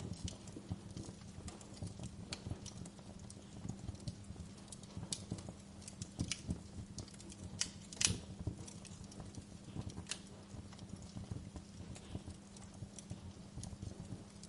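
Fire crackling and popping: dense, irregular small crackles over a low steady rumble, with one louder pop about eight seconds in.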